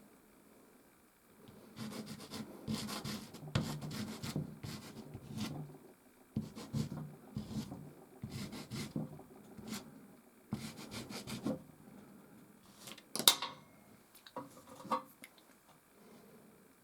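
Soft pastel rubbing and scraping across canvas in irregular strokes, starting after a short pause. A sharp tap, the loudest sound, comes a little past the middle, then a few lighter strokes.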